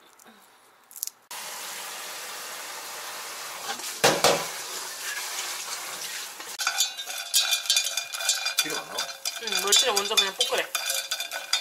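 Kitchen cooking sounds: a steady hiss from about a second in, one loud knock about four seconds in, then from about halfway dried anchovies sizzling in sesame oil in a pot while wooden chopsticks stir them with rapid clicks and scrapes against the pot.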